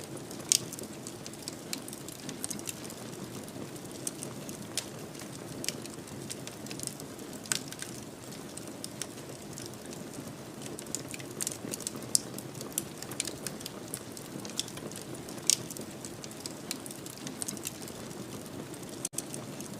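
Wood fire crackling in a fireplace: irregular sharp snaps and pops over a steady low hiss of burning, with a few louder pops several seconds apart. The sound drops out for an instant near the end.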